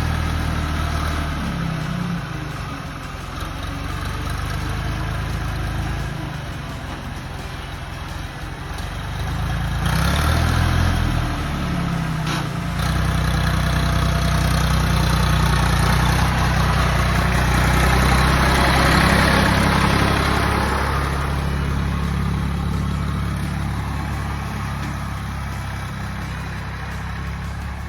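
Old John Deere tractor's engine running under working load, its pitch rising and falling. A louder rushing noise builds over it from about a third of the way in and fades again after two-thirds.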